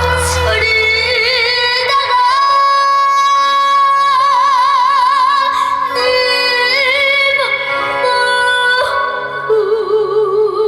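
A boy's high singing voice holding long notes with wide vibrato over band accompaniment, a trot song with loud, sustained phrases.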